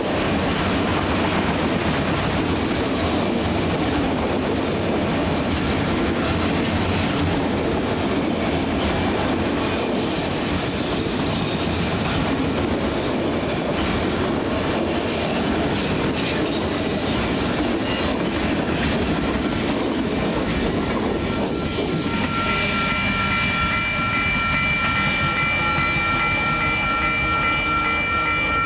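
Freight train of autorack cars rolling past at close range, a steady loud noise of wheels on rail and rattling cars. About twenty seconds in a steady high-pitched squeal of the wheels sets in and holds.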